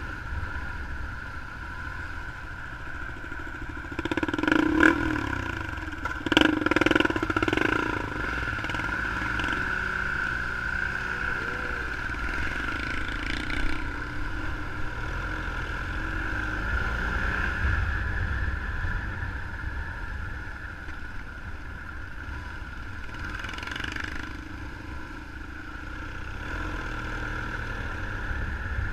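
Motorcycle engine running steadily, with louder surges of revving about four and six seconds in.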